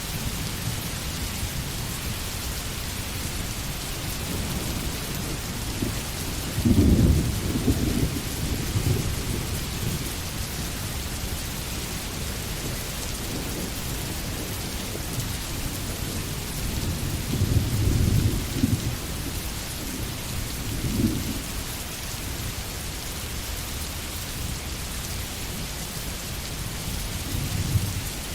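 Steady rain falling on forest foliage, with low rumbles of thunder swelling up about a quarter of the way in, again around two-thirds through, and briefly near the end.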